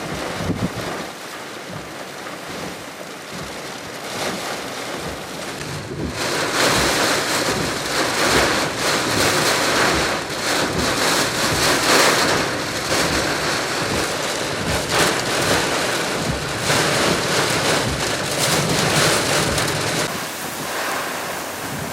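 Typhoon wind and rain. A strong gust sweeps in about six seconds in and holds, with heavy wind noise on the microphone, then eases a little near the end.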